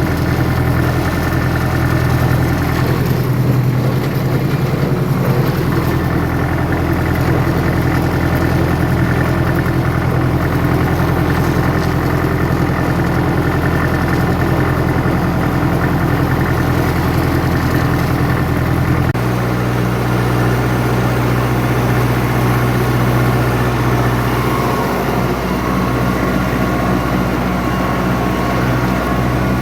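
Steyr 288 tractor's diesel engine running steadily. About two-thirds of the way through, the engine note changes abruptly and settles at a different pitch.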